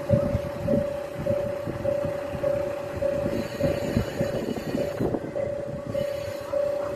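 Railway level-crossing warning bell ringing steadily at about two strokes a second, over the low rumble and clanks of a diesel railcar at the station.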